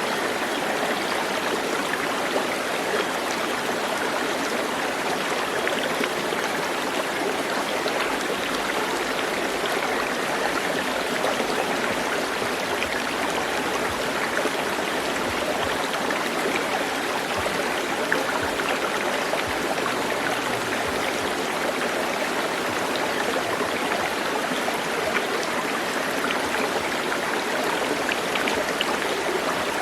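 Stream water flowing with a steady, even rush and small scattered splashes.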